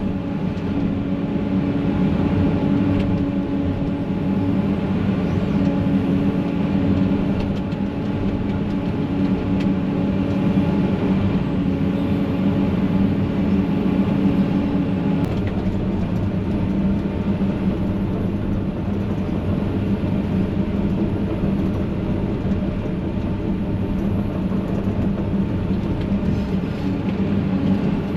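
Heavy diesel machinery engine running steadily; one of its tones drops out about halfway through.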